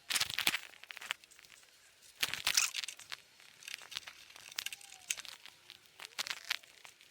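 Metal parts being handled during engine removal, clinking and rattling in three short bursts, as bolts are taken out and lifting hardware is fitted to the flathead V8's manifold.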